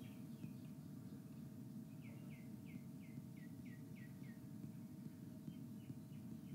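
Faint bird chirping in the background: a quick run of short chirps, about four a second, each falling in pitch, with a few scattered chirps before and after, over a steady faint hum.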